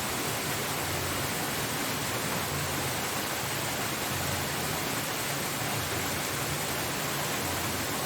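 Waterfall: a steady, even rush of falling water, with a low rumble wavering underneath.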